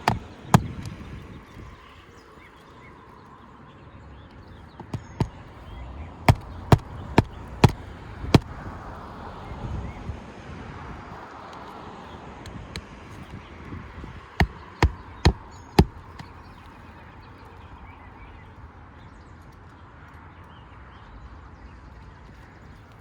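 Hammer driving roofing nails through asphalt shingles: sharp strikes in short runs of two to five, about two a second, with pauses between runs.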